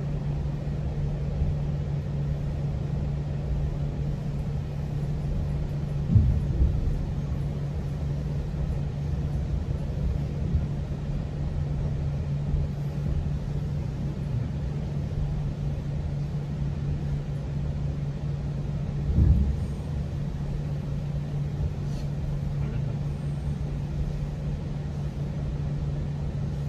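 GO Transit commuter train running, heard from inside a passenger coach: a steady rumble with a constant low hum, and two louder thumps, one about a quarter of the way in and one about two-thirds of the way in.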